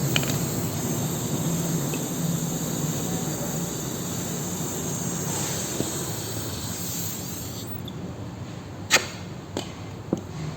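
Gas torch flame hissing steadily while heating a battery's lead terminal post, stopping about three-quarters of the way in, followed by three sharp taps.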